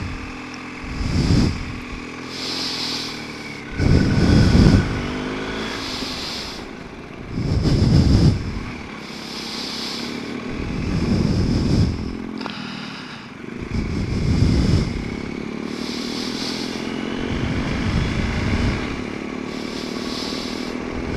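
BMW R 1250 GS Adventure's boxer-twin engine running on the move, under a loud low rumble that swells and fades about every three to four seconds.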